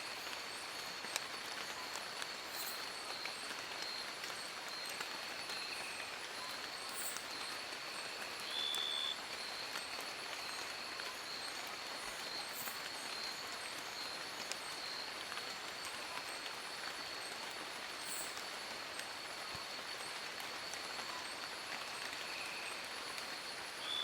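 Steady rain falling in a forest, an even hiss with a constant high-pitched tone running through it. About eight and a half seconds in, a brief clear high note stands out above the rain for under a second.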